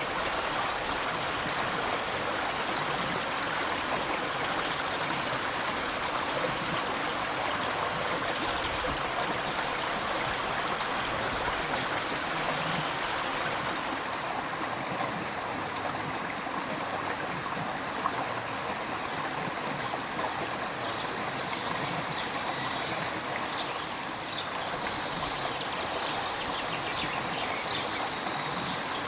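River water flowing over rocks: a steady rushing and gurgling.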